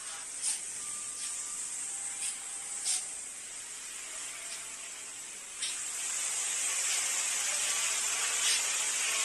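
Steady high hiss with a few light clicks, turning louder about five and a half seconds in.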